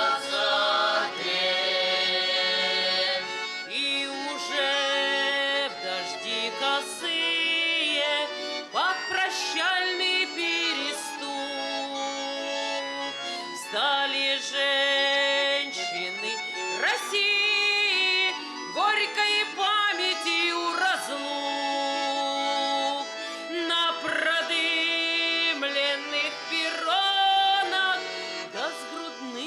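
Accordion music: an instrumental passage of held chords under a moving melody line.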